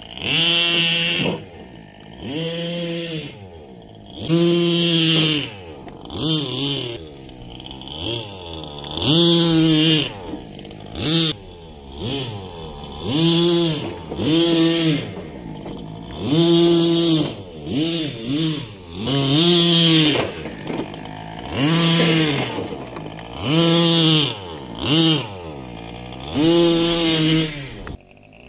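The 3.5cc (.21) two-stroke nitro engine of an HSP 1/8 RC monster truck revving again and again, about a dozen short blips that each rise and fall in pitch, with lower running between them.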